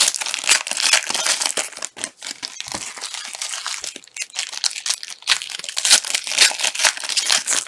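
Trading-card pack wrappers crinkling and tearing as packs are ripped open and handled: a dense, continuous crackle of thin plastic foil.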